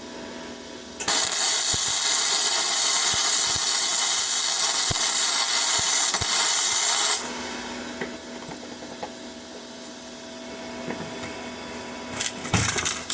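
Flux-core wire welder (Parkside PMSG 200 A1) laying a weld bead: the arc hisses and crackles for about six seconds, starting and stopping abruptly as the trigger is pulled and released. Afterwards the machine hums, with a few light clicks and a short burst of noise near the end.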